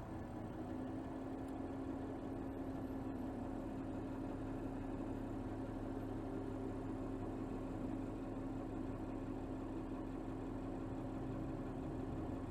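Mercedes GLS 450's 3.0-litre turbocharged inline-six running steadily at low revs, heard from under the hood, with a steady hum setting in about half a second in.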